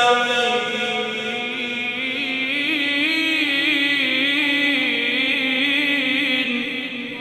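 A man reciting the Quran in melodic tajweed style, singing the word 'nasta'in' and drawing its last syllable out into one long held note, ornamented with a wavering trill in the middle, that ends about seven seconds in.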